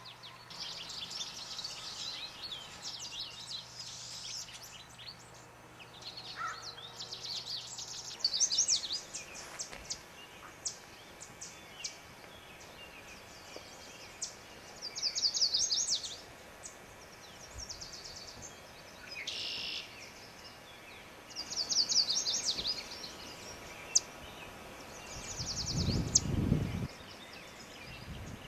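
Songbirds singing: short, high, rapid trilled phrases repeated every few seconds. A brief low rumble comes near the end.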